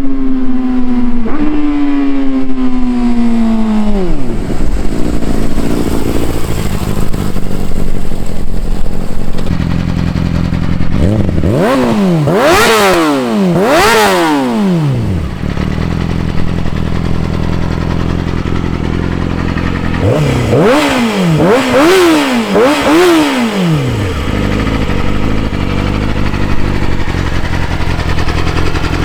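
Yamaha R6 inline-four sport bike engine with a cat-deleted Graves exhaust, revved while stationary. The revs fall back to idle over the first few seconds, then it idles, with two sets of quick throttle blips, each climbing and dropping in pitch, around the middle and again later before settling back to idle.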